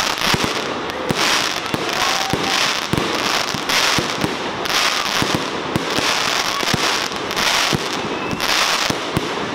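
Fireworks display going off continuously: a quick succession of sharp shell bangs, with waves of dense crackling about once a second and a few faint short whistles.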